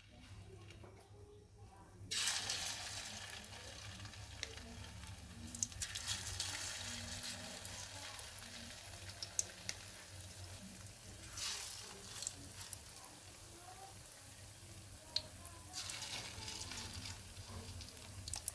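Hot oil sizzling in a steel wok as spoonfuls of spiced paste are dropped in to fry as patties. The sizzle starts suddenly about two seconds in and flares up again each time a new spoonful goes in, about three more times, with a few light clicks of the spoon on the pan.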